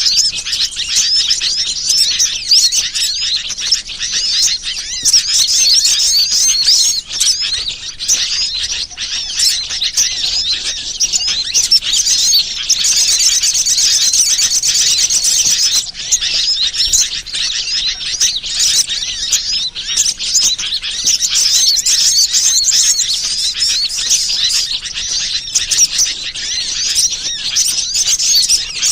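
Dense, loud chorus of many small birds chirping and trilling without pause, high-pitched and busy: a bird-lure (pikat) recording used to attract wild birds.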